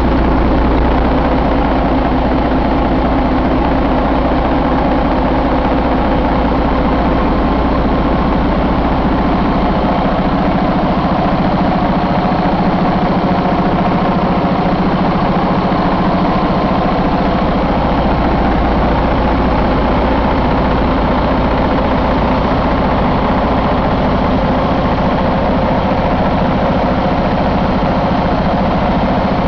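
2017 Detroit DD15 inline-six diesel engine idling steadily.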